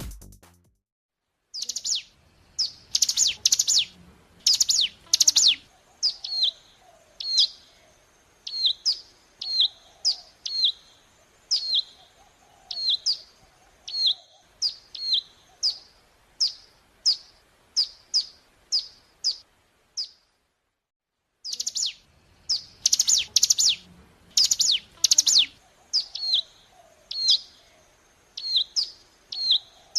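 Ciblek gunung, a small prinia, singing: a quick run of loud, sharp chirps, then single falling chirps repeated about once a second. After a short break near the middle the same sequence starts again, as a looped lure recording would.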